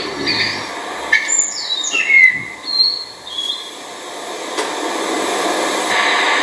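A blue rock thrush's whistled song phrase: a few short, clear notes, some sliding downward. Then a steady rushing hiss builds up and holds.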